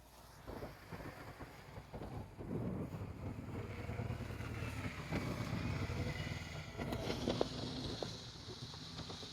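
A large vehicle's engine running, growing louder about two seconds in, with a faint high whine gliding in pitch over it and a few sharp clicks near the end.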